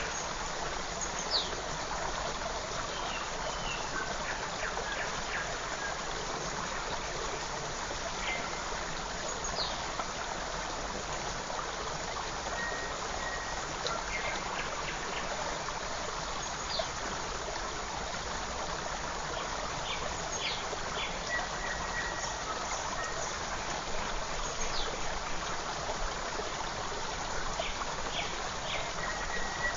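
Forest creek running steadily, with brief, scattered high-pitched bird chirps over the flow.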